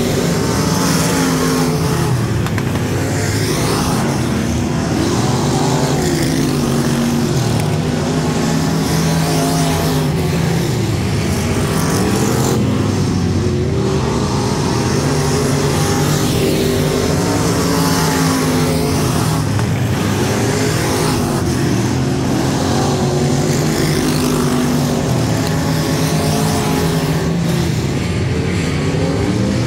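A USRA limited modified race car's engine under racing load, its pitch climbing and dropping over and over every few seconds as the throttle is opened and lifted, lap after lap.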